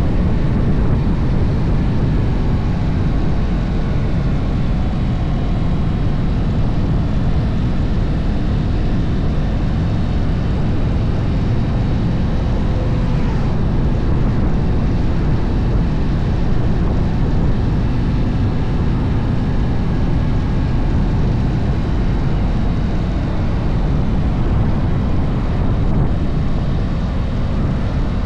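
Harley-Davidson V-twin motorcycle on the move downhill: a steady, loud low rumble, with faint engine tones sliding up and down as the revs change.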